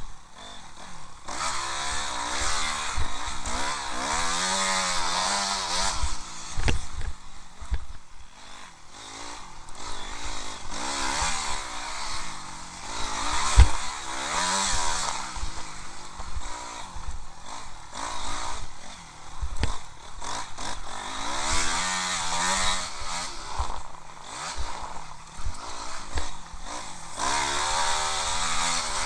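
Honda CRF250R's single-cylinder four-stroke engine revving up and down over and over as the motocross bike is ridden hard, the pitch rising and falling every second or two. There are occasional low thumps, one loud one about halfway through.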